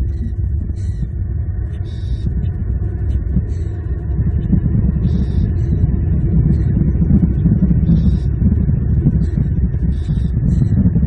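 Steady low rumble with short, high chirps of small birds repeating about once a second.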